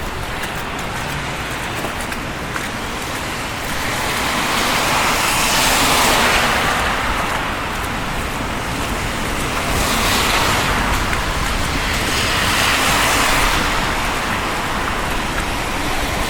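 Cars passing on a snow-covered street: tyre hiss swells and fades about three times over a steady background of traffic noise.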